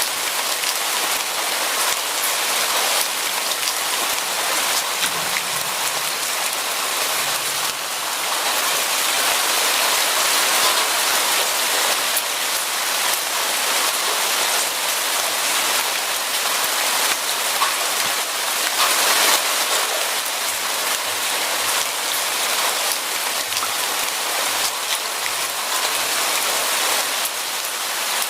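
Steady rain falling on a surface, a dense hiss scattered with the fine ticks of individual drops.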